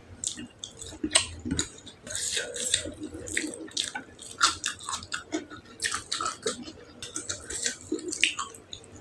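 Close-miked chewing of tender beef tongue, an irregular run of short mouth smacks and clicks.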